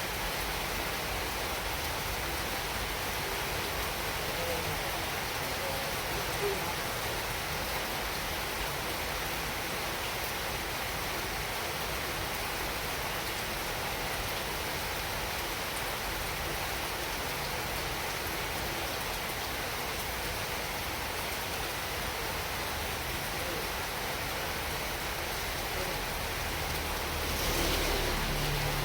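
Heavy rain falling steadily, an even hiss of rainfall. Near the end it swells briefly louder, with a low rumble underneath.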